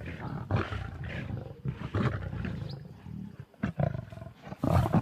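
Lions growling and snarling at one another over a warthog kill in a run of short, rough outbursts, the sound of rivalry while feeding.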